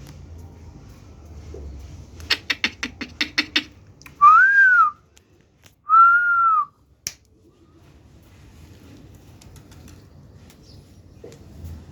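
A quick run of about nine clicks, then two short whistled notes about a second apart, each rising and falling in pitch.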